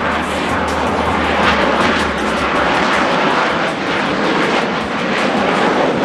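Loud, steady jet noise from Blue Angels F/A-18 Super Hornets flying a section high output pass at high power. A low rumble underneath fades out about two and a half seconds in.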